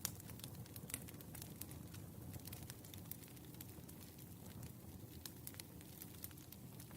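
Wood fire crackling: irregular sharp pops and snaps over a soft low rumble of burning logs.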